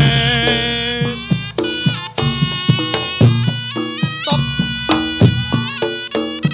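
Reog Ponorogo gamelan music for jathilan: a slompret (Javanese shawm) plays a nasal melody in held notes over regular drum and percussion strokes.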